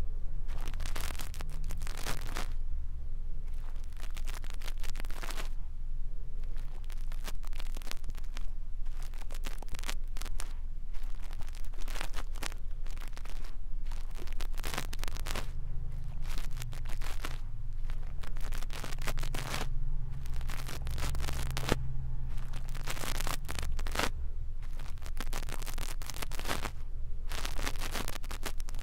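Brush bristles stroking and scratching over a microphone, as in ASMR ear cleaning, in repeated irregular strokes with a steady low rumble underneath.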